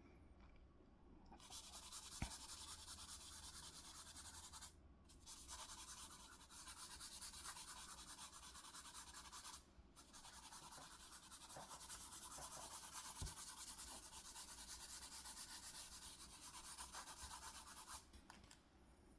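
Faint, quick back-and-forth rubbing of a drawing tool on paper, shading and blending colours. It pauses briefly twice and stops shortly before the end.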